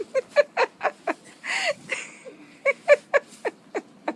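A voice making a run of short, pitched bursts, about four a second, broken by a breathy gasp about a second and a half in.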